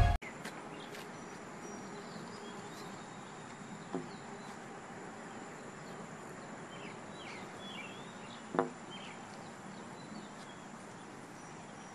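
Steady flow of water from a sump pump's discharge after rain, with faint bird chirps in the background. Two brief louder sounds stand out, about four seconds in and again past the eight-second mark.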